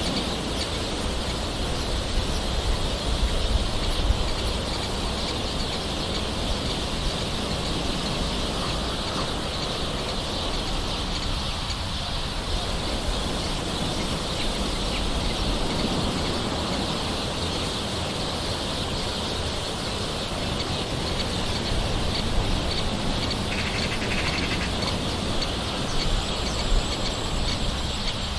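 Gentle rain falling steadily, with birds calling in the background.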